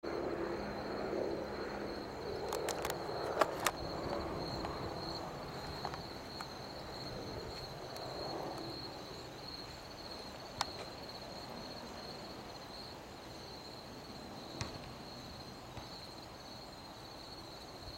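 Crickets or other night insects chirping in a steady high trill, over a low rumble that slowly fades away, with a few sharp clicks now and then.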